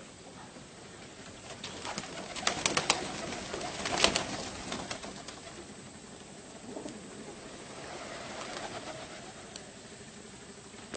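Baghdadi pigeons cooing in low, repeated calls. A run of sharp clicks comes a couple of seconds in, with the loudest about four seconds in.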